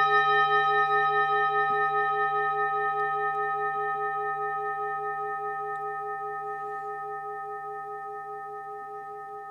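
A singing bowl struck once, ringing on and slowly fading. Its low tone wavers in a steady pulsing beat.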